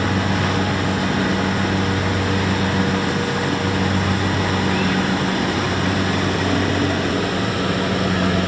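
Kubota DC70X rice combine harvester running steadily, a constant low engine hum under a broad machinery noise.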